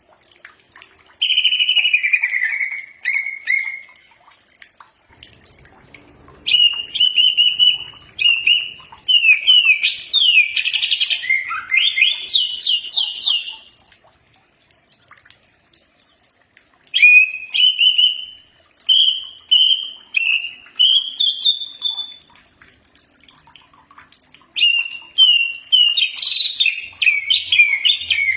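Cucak ijo (green leafbird) singing: loud phrases of clear whistled notes, sliding whistles and rapid rising sweeps, given in four bursts separated by short pauses.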